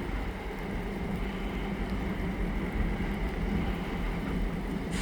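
Steady low rumble of a diesel locomotive working in a rail yard, under an even background hiss.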